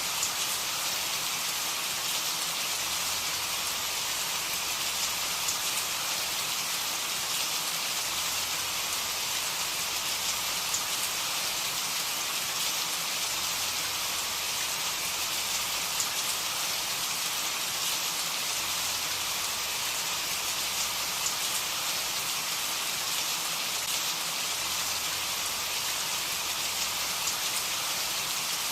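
Steady rain falling, a constant hiss of drops with faint fine pattering and no thunder.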